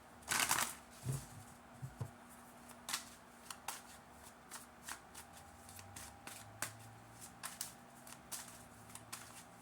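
Tarot cards being shuffled and handled: a loud riffle about half a second in, then a run of short flicks and taps of cards.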